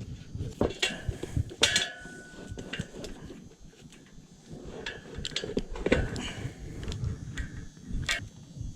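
Metal hand tools clinking and knocking irregularly while working on a dirt bike's rear wheel and tyre, with one short metallic ring about two seconds in.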